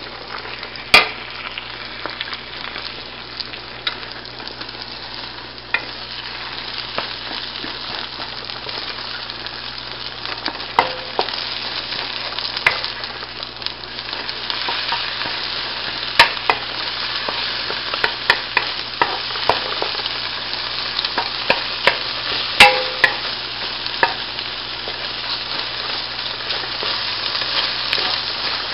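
Scallops and beaten egg sizzling in hot oil in a nonstick frying pan. A wooden spatula scrapes and knocks against the pan in sharp clicks as the mixture is stirred and broken up. The sizzle gets louder about halfway through.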